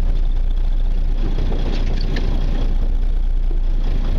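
Fishing party boat's engine idling, a steady low rumble.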